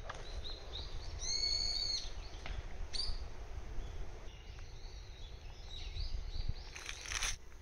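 Wild birds calling: one long, even call about a second in, short chirps around it, and a cluster of louder calls near the end, over a low background rumble.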